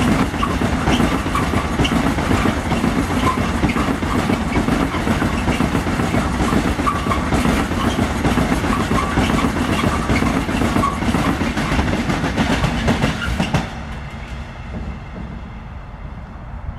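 Freight train of open coal wagons rolling past, steel wheels running and rattling on the rails. The sound drops off sharply about 13 to 14 seconds in as the last wagon goes by.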